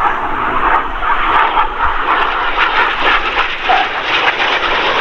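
Steady jet noise from the Red Arrows' BAE Hawk T1 trainers in flight, a loud continuous rushing roar with a crackly edge.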